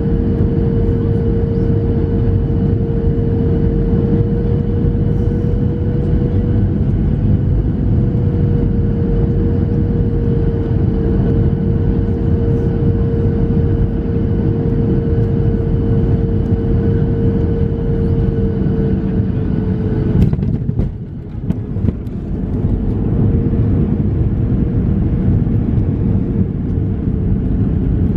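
Cabin noise of a Boeing 737-700 with CFM56-7B engines: a loud steady rush of engine and airflow noise with a steady whine running through it. About twenty seconds in there is a short click, and the noise dips for a second or so before returning.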